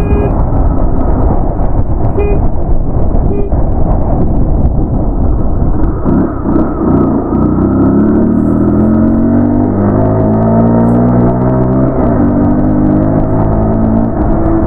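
Wind buffeting a helmet-mounted microphone on a moving motorcycle. About six seconds in, the motorcycle's engine comes through, rising in pitch as it accelerates; it dips about twelve seconds in, then climbs again.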